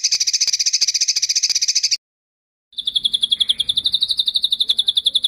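Two rapid, high trills from a songbird-tutor ('masteran') recording. A very fast, buzzy trill lasts about two seconds and cuts off abruptly. After a short dead-silent gap, a slightly slower, evenly pulsing trill on one steady pitch starts and runs on.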